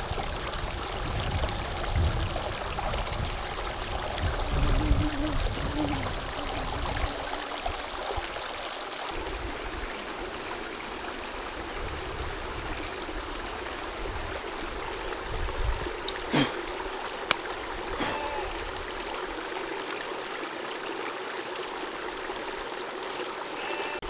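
Stream water running steadily over rocks, with some low thumps in the first several seconds and a few sharp clicks about two-thirds of the way in.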